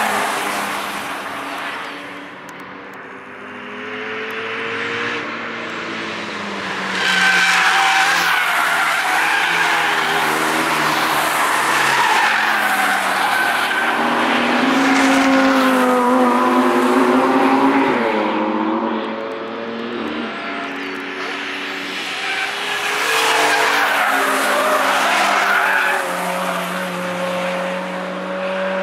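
Cars driven hard past a trackside spot one after another on a race circuit, engines revving and falling in pitch as they go by, with tyres squealing. The sound gets louder about seven seconds in and again near the end.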